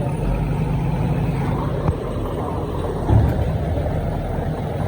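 Heavy diesel earthmoving machine running steadily under load, with a short knock about two seconds in and a louder thump a little after three seconds.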